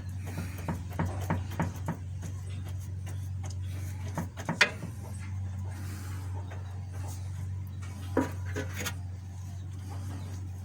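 Scattered small clicks and taps of hand work applying resin-wet fiberglass cloth with a brush and small roller, over a steady low hum. A sharper click comes about halfway through.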